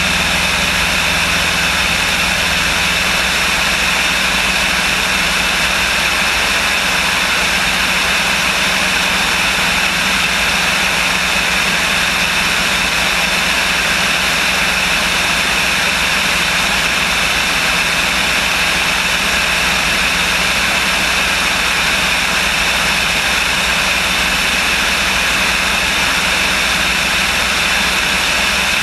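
Light aircraft's engine and propeller running at a steady, loud drone, heard from inside the cabin.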